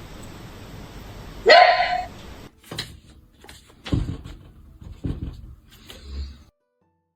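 A dog barks once, loud and rising in pitch, about a second and a half in, then makes four softer, shorter sounds about a second apart.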